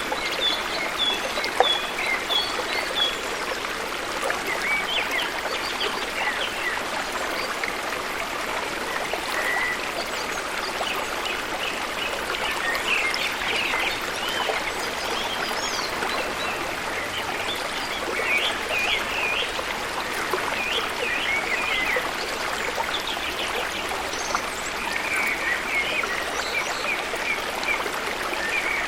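Flowing water rushing steadily, with birds chirping over it in short bursts: a run of repeated high notes at the start and further clusters of chirps later on.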